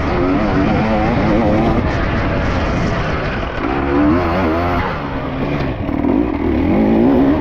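Dirt bike engine revving up and down repeatedly while being ridden, its pitch rising and falling every second or so.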